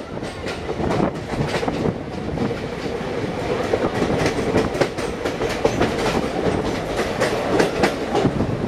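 Passenger train running at speed, heard from the coach doorway: a steady rumble with quick, irregular clatter of the wheels over the track. The sound gets a little louder from about three seconds in, as the train runs close beside a rock cutting wall.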